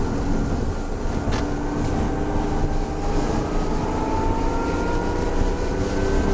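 BMW E36 M3's straight-six engine heard from inside the cabin, its revs rising slowly under load over steady road and wind noise.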